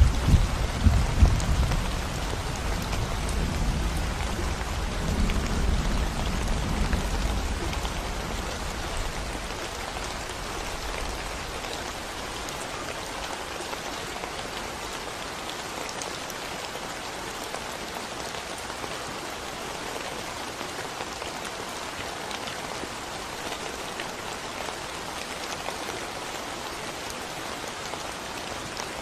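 Steady rain falling on a concrete road. A low rumble of thunder dies away over the first several seconds, leaving only the even patter of the rain.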